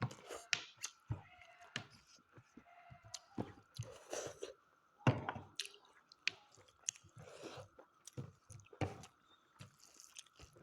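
A person chewing and smacking mouthfuls of mutton curry close to the microphone, with irregular wet clicks and smacks. A faint steady whine runs underneath.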